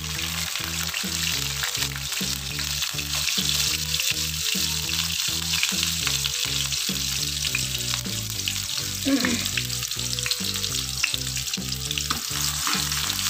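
Whole shallots just added to hot coconut oil in a wok, sizzling steadily as they fry.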